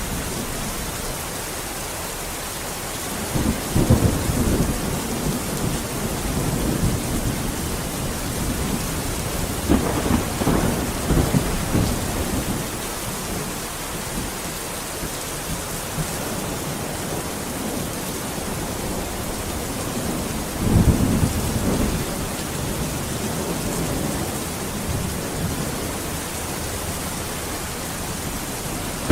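Steady rainfall with three low, rolling rumbles of thunder spread through it, each lasting a second or two.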